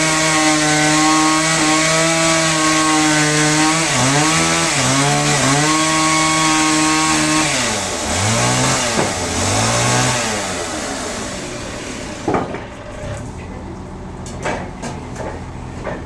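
Two-stroke chainsaw running at high speed through wood, its pitch dipping briefly a few times under load. Near the middle it drops and revs twice, then dies away, and a few sharp knocks follow near the end.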